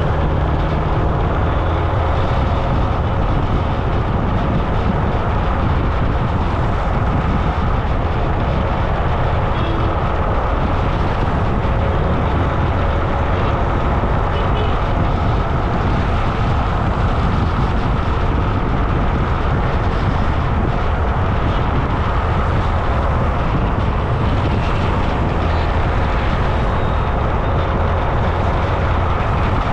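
Steady rumble of wind on the microphone mixed with road noise while riding along a road, with no pauses or changes. A pitched tone carried over from just before fades out in the first second.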